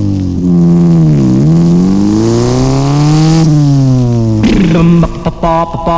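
Motorcycle engine sound effect revving: its pitch dips about a second in, climbs steadily, then falls away. Around four and a half seconds in, the band's doo-wop rock and roll intro takes over with a steady beat.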